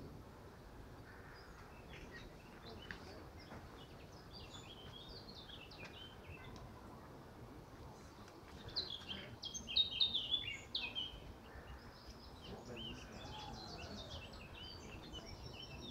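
Wild birds singing and chirping over a steady background hiss, with a louder, fast run of song about nine seconds in.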